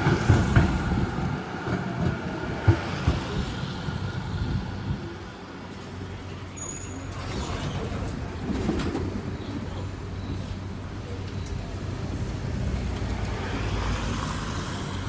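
Z3 class tram heard from on board, its wheels clattering and knocking over rail joints for the first few seconds. The clatter then dies away, leaving a steadier running noise with a low electrical hum.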